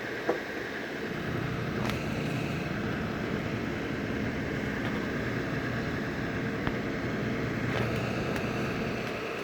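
A vehicle engine running steadily, growing louder about a second in, with a few faint clicks.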